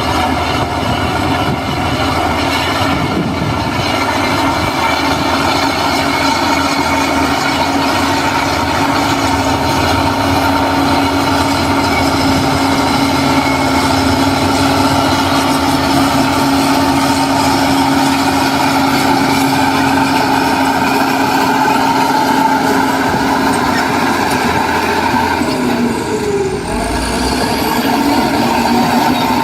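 Heavy diesel engine of earthmoving machinery running steadily, its pitch dipping briefly and climbing again near the end.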